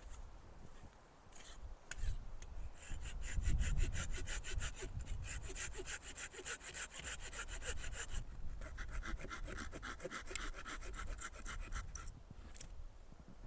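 Hand saw cutting through wood with quick, even strokes, about five a second, starting about two seconds in and stopping near the end, with a short break midway.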